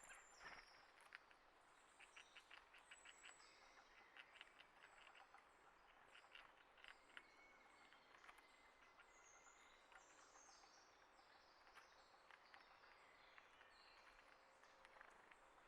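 Faint, frequent chirps and short whistled calls of several small birds.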